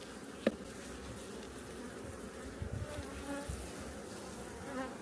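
Honeybees from an opened hive buzzing steadily as a mass, with a single sharp click about half a second in.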